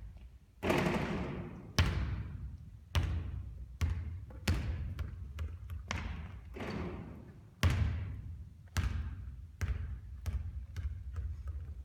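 A basketball bouncing hard on a court: a string of sharp bounces roughly a second apart, with a couple of brief rushing swells between them, getting fainter near the end.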